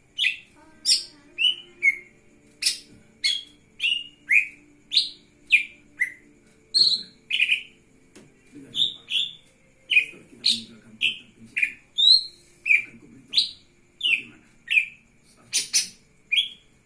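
Cucak ijo mini (green leafbird) singing in full voice: an unbroken series of short, sharp notes, each sweeping downward from high to lower pitch, about two a second.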